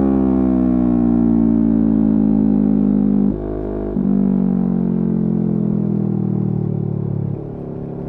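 Yamaha R3's parallel-twin engine with its revs falling steadily, the note sliding lower. It dips briefly about three seconds in, picks up again, and steps down quieter near the end.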